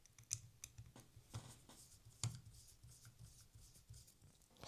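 Faint small clicks and light handling of small parts of an OO-gauge model locomotive as a part is fitted back on, a few separate ticks spread over the few seconds against a faint low hum.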